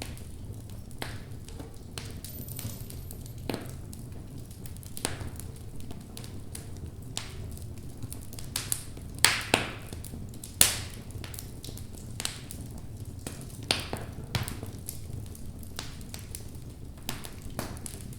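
Logs burning in a fireplace, crackling with scattered pops and snaps over a low steady rumble of the flames. Two louder pops come about halfway through, a second or so apart.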